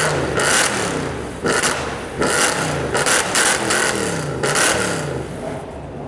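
Tuned performance-car engine with a loud aftermarket exhaust revved in a quick series of short throttle blips, about eight in all, the note falling back after each one.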